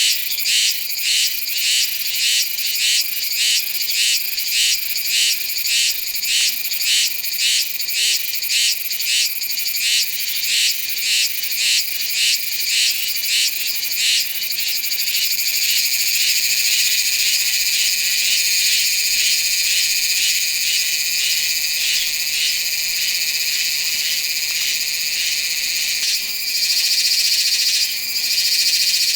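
Iwasaki's cicada (Meimuna iwasakii) singing, a loud high-pitched buzz. It first pulses at about two beats a second, then about halfway through runs on as a steady buzz, broken briefly a couple of times near the end.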